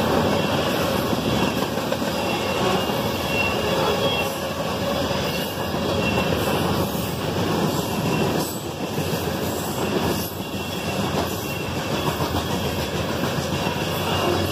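Freight train of covered hopper cars rolling past at close range: a steady rumble and rattle of steel wheels on the rails, with faint, short wheel squeals.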